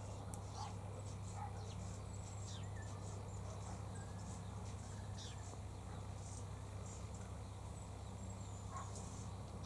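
Birds calling in short, scattered chirps and quick falling whistles over a steady low hum.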